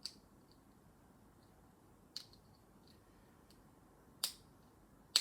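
Lego pieces being handled and pressed into place: four sharp plastic clicks a second or two apart, with fainter ticks between.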